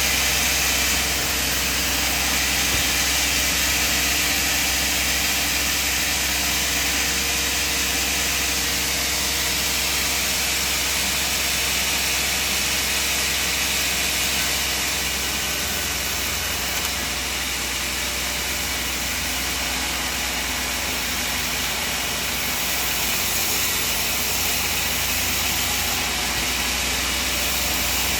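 Sawmill machinery running steadily: an engine drone under a strong hiss, with no distinct strikes or breaks.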